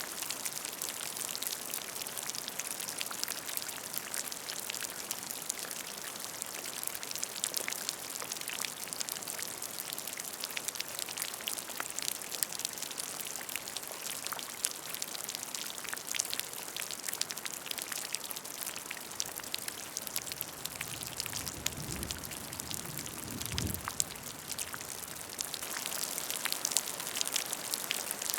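Steady rain falling on a puddle: a constant hiss dense with small drop splashes. A faint low rumble comes in about three-quarters of the way through.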